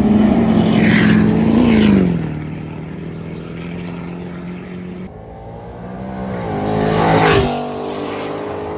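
Two trucks drive past one after the other. The first engine runs loud and steady, then its pitch and level drop about two seconds in as it goes by. The second rises in pitch and volume, is loudest about seven seconds in, then its pitch drops as it passes.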